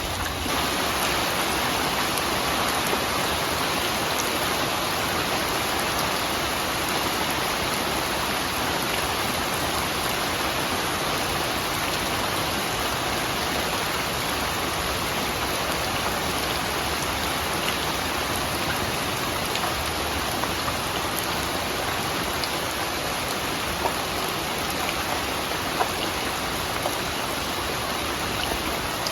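Steady, heavy rain falling and pattering on surfaces, with a few separate drops ticking now and then.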